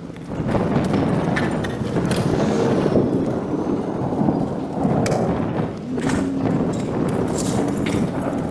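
Irregular scraping and knocking of hand tools working through mud and water on a paved sidewalk, with repeated sharp knocks.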